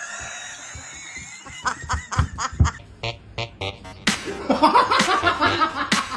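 Music with laughter over it, mixed with sharp clicks and slaps. The laughing is heaviest in the second half.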